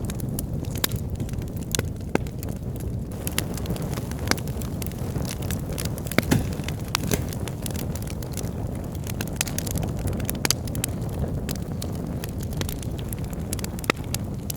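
Wood fire in a fireplace burning with a steady low rumble of flames and frequent irregular crackles and sharp pops from the logs, a few louder snaps among them.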